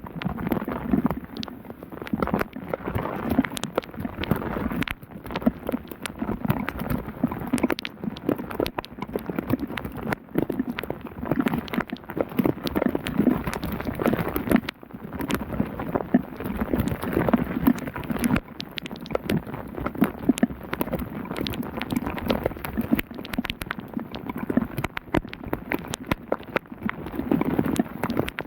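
Heavy downpour pattering, with many sharp drop clicks close by.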